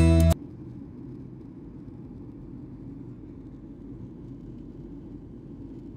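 Steady low rumble of engine and air noise heard from inside a moving vehicle. Background music cuts off abruptly just after the start.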